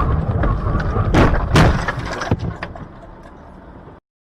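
Car door being opened and shut from inside the car: low rumbling and handling noise with loud clunks about a second in and at a second and a half, quieter after, and the sound cuts off abruptly near the end.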